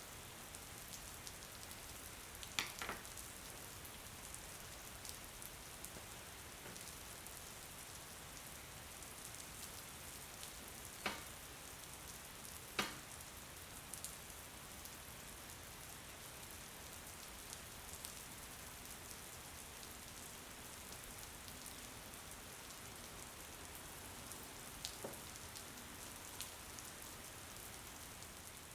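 Steady, fairly faint rain falling as an even hiss, with a few sharper single ticks standing out above it, the loudest about two and a half seconds in and at about eleven and thirteen seconds.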